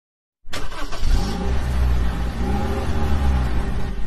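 Truck engine sound effect: it starts about half a second in with a few clicks, then runs with a heavy low rumble whose pitch rises and falls as it revs.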